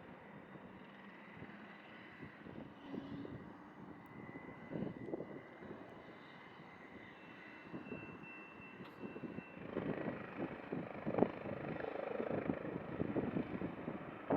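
Airbus H145 helicopter's turbine engines and rotor running, with a steady high whine over irregular wind gusts on the microphone; the sound grows louder about two-thirds of the way through.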